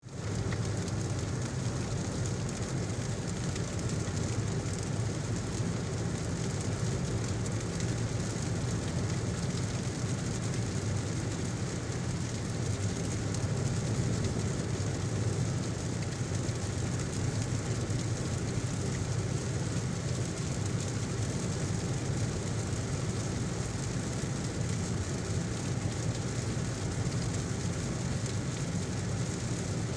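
Steady heavy rain mixed with the low, even rumble of a car driving on a wet road.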